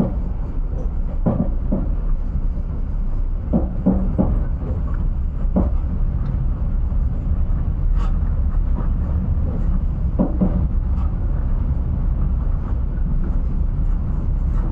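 Passenger train running, heard from inside the carriage: a steady low rumble with a few short knocks scattered through it.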